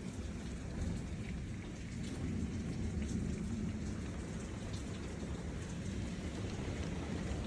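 Heavy rain pouring steadily during a thunderstorm, with a deep, continuous rumble beneath it that swells slightly a couple of seconds in.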